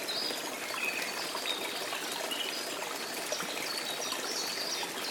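Forest stream and waterfall water running steadily, with short high bird chirps scattered over it.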